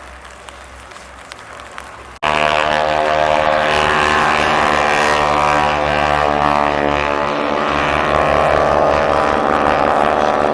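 Piston-engine WWII fighter running at high power as it flies past, a loud, steady propeller-engine drone whose pitch falls slightly as it goes by. It cuts in abruptly about two seconds in, after a quieter stretch of background noise.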